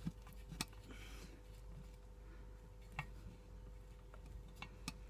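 A handful of faint, sharp metallic clicks, spread out a second or two apart, from hand tools and bolts being handled while the oil pan bolts are fitted, over a low steady hum.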